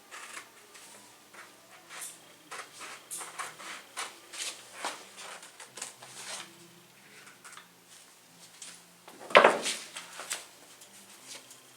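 Scattered rubbing and light knocking as an iron is worked over fabric on an ironing board, with one louder thump about nine and a half seconds in.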